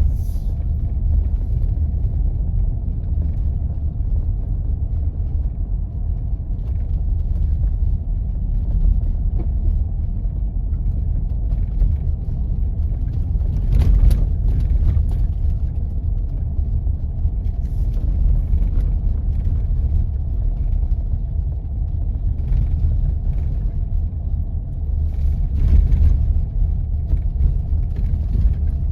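A car driving on a snow-covered road: a steady low rumble of engine and tyres, with a couple of brief knocks, one near the middle and one near the end.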